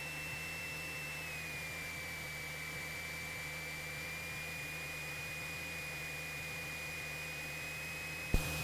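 Cessna 172SP's Lycoming four-cylinder engine and propeller running at reduced approach power, heard inside the cockpit as a steady drone and hiss. A high whine drops slightly in pitch about a second in and then slowly rises. One sharp click comes near the end.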